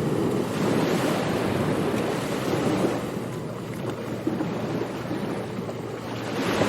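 Surf breaking and washing on a beach, a steady rushing noise that swells as a wave comes in just after the start, eases off, and builds again with another wave near the end. Some wind is on the microphone.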